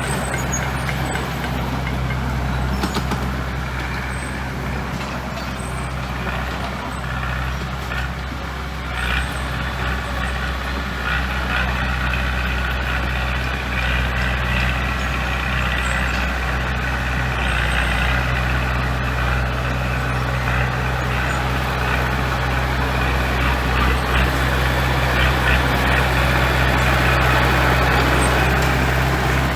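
Heavy construction machine's diesel engine running steadily, a deep continuous drone that grows a little louder over the second half.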